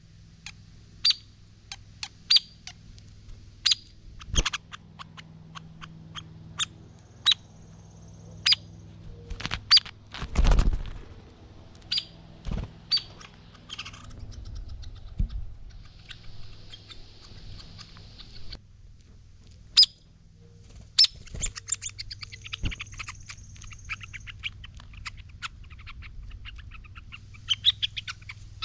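Hairy woodpeckers calling: short, sharp, high single notes repeated about once a second, then a rapid run of chittering notes in the second half. A dull thump with a rustle comes about ten seconds in.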